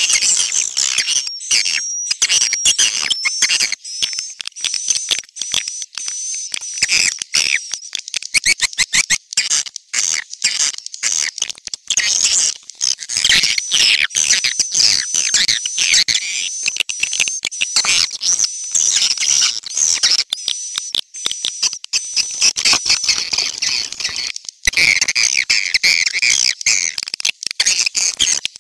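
Swiftlet call recording: a dense chorus of high twittering chirps mixed with rapid clicking, the lure call played to draw swiftlets into a nesting house.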